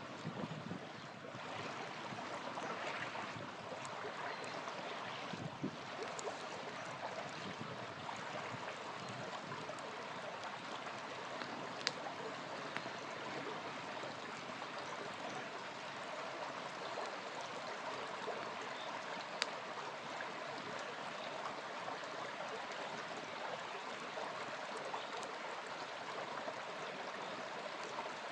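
Small river flowing steadily with a constant rushing and gurgling, and a campfire burning close by, with a couple of sharp crackling pops about twelve and nineteen seconds in.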